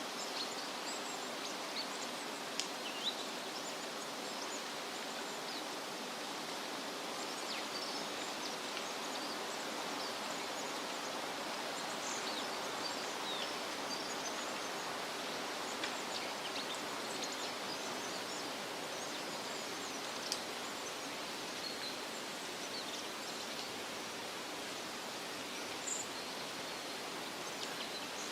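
Steady wind rustling through leafy trees, with many short, high bird chirps scattered throughout and a few louder chirps standing out.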